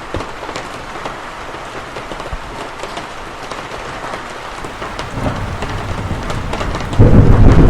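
Steady rain with scattered sharp drop impacts, and a low thunder rumble that swells about five seconds in and breaks loudly near the end.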